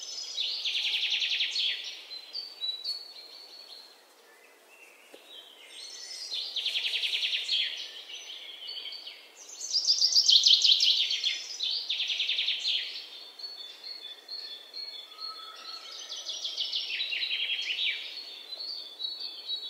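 Birds chirping in fast trills, phrase after phrase of a second or two with short pauses between, the loudest about halfway through.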